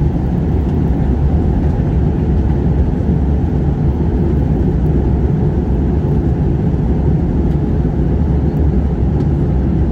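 Airliner cabin noise: a steady low rumble of the engines and rushing air, with a faint constant hum.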